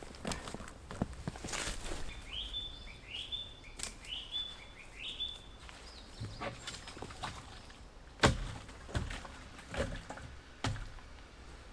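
Scattered knocks and footsteps, with a bird giving four short rising calls about two to five seconds in. A single louder thump comes about eight seconds in.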